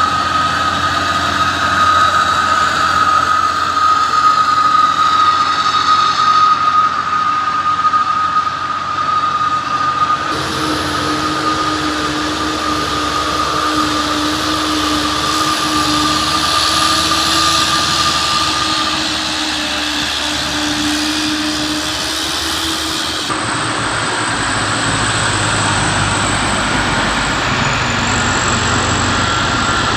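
Heavy diesel trucks running hard on a steep climb, a loud steady engine sound with a high whine over it. The sound changes abruptly twice, about a third of the way in and again past three-quarters.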